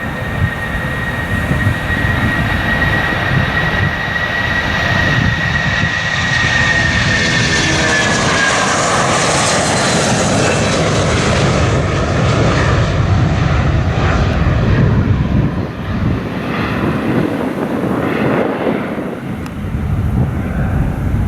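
Jet airliner departing close by at full takeoff thrust. A high fan whine drops in pitch about eight seconds in as the aircraft passes. Under it is a loud engine roar that peaks soon after and then rumbles on as the jet climbs away.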